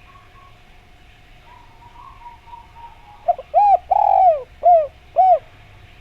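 Derkuku (spotted dove) cooing: a phrase of about five arched coos starting a little past halfway, the second-to-middle coo the longest. Before it, a faint steady whistling tone and a faint rapid trill.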